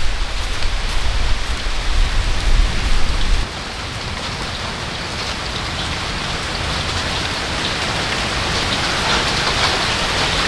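Rain falling steadily as an even hiss. A low rumble underneath stops suddenly about three and a half seconds in, and the hiss then grows slightly louder toward the end.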